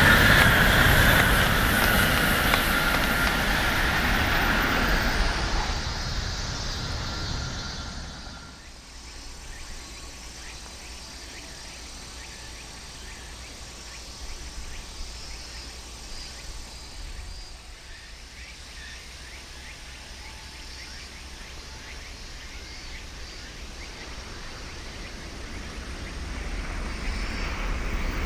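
Shinkansen train passing on a viaduct, its rushing sound fading away over the first eight seconds into a faint steady outdoor background. A rising rush returns near the end.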